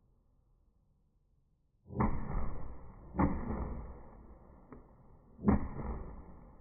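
Fireworks going off: three sharp bangs, about two seconds in, a second later and near the end, each trailing off in a rumble, with a faint crackle between them.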